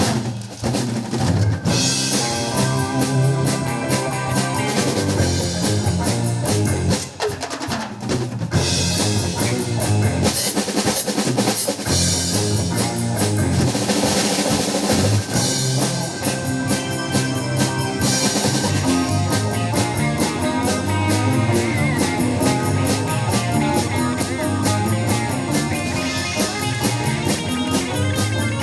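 Live rock band playing an instrumental passage, the drum kit to the fore over bass and keyboard.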